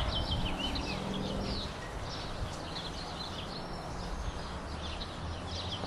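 Small birds chirping and calling over and over, many short quick notes, over a steady low hum.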